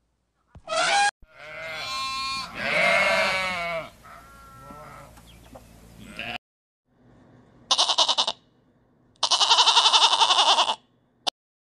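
Sheep and goats bleating: a long wavering bleat in the first few seconds, then two shorter bleats with a fast quaver near the end.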